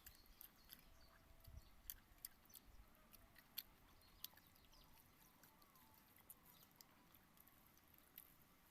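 Faint eating sounds: chewing, with scattered soft mouth clicks and smacks.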